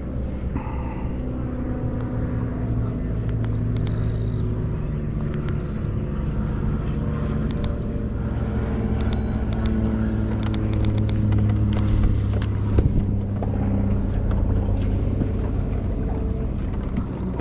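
Boat motor running steadily at low speed, a continuous low hum whose pitch drifts up and down a little.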